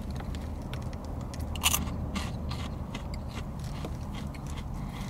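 Crunching and chewing on Buc-ee's Beaver Nuggets, a crisp caramel-coated puffed corn snack: a run of sharp small crunches, with one louder crunch about one and a half seconds in.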